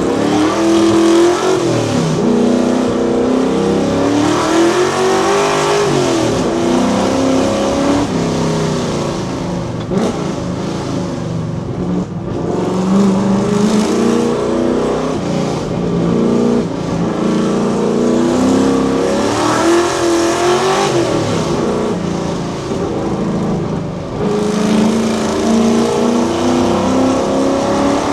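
Ford Fox Body Mustang's V8 exhaust under hard acceleration, the revs climbing and falling again and again through gear changes and lifts.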